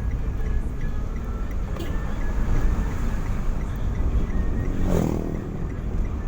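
Car on the move: a steady low engine and road rumble, with a short falling tone about five seconds in.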